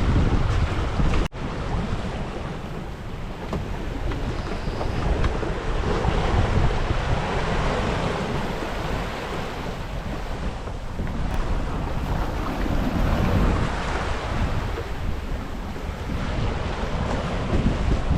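Strong wind buffeting the microphone over the rush and splash of rough water along the hull of a Yamaha 30 sailing yacht under way. The sound cuts out for an instant about a second in.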